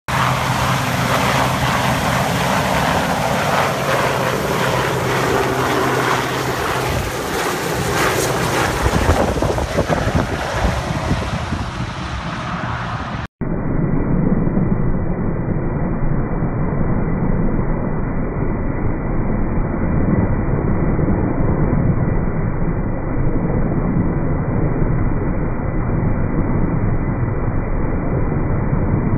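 RAF Westland Sea King helicopter's twin-turbine engines and rotor running loudly, with a steady engine hum under a rushing noise. About 13 seconds in, the sound cuts abruptly to a duller, muffled rotor rumble that continues to the end.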